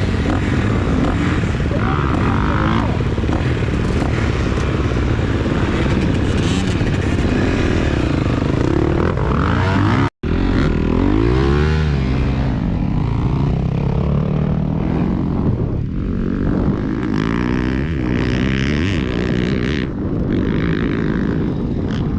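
Four-stroke motocross bike engine being ridden, its pitch rising and falling as the throttle is opened and closed. The sound cuts out for an instant about ten seconds in.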